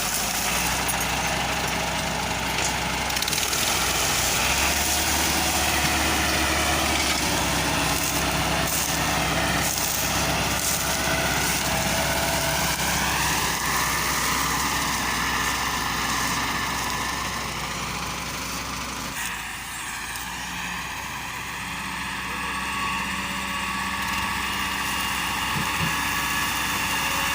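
Al-Ghazi tractor's diesel engine running steadily. Its pitch rises about halfway through and shifts abruptly about two-thirds of the way in.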